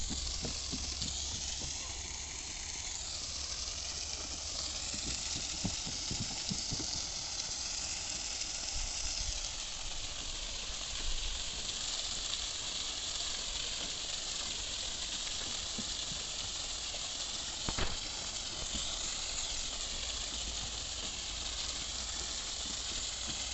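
Steady high hiss of outdoor ambience over a low rumble, with a few soft knocks early on and one sharp click past the middle.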